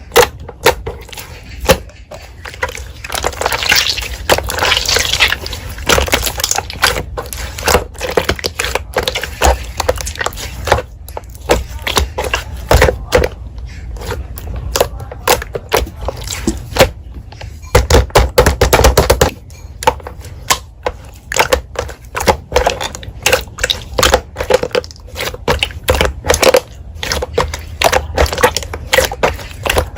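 Slime being squished and pressed by hand: a quick, irregular run of sticky clicks and small pops, with a louder, denser spell a little past halfway.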